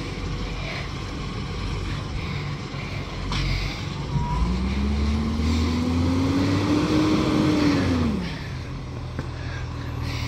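Garbage truck's diesel engine running steadily, then revving up about four seconds in. The pitch rises slowly for about four seconds, then drops quickly back to idle.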